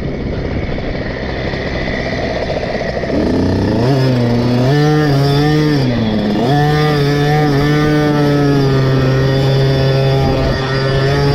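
KTM SX 50's single-cylinder two-stroke engine on a motocross lap, running low for the first few seconds, revving up about three seconds in, dipping briefly near six seconds, then held at high revs.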